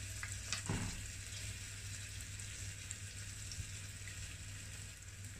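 Mushrooms frying in olive oil in a saucepan with a quiet, steady sizzle over a low hum, with a few light taps in the first second.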